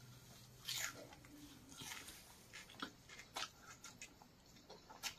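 Faint chewing of a large mouthful of roti with chicken curry: a few soft mouth smacks and clicks, about a second apart.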